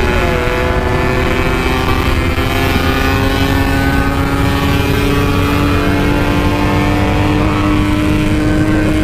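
Yamaha RX King's 135 cc two-stroke single-cylinder engine running steadily under way through its Packing Power exhaust, its pitch creeping slowly upward.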